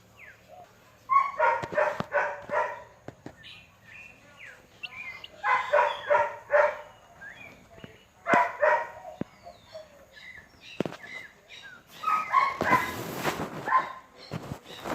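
An animal calling in four bursts of quick repeated notes, spaced a few seconds apart. A rushing hiss runs under the last burst.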